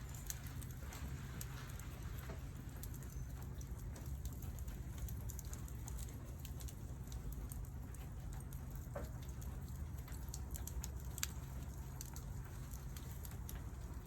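Wood campfire crackling: scattered sharp pops and snaps over a steady low rumble.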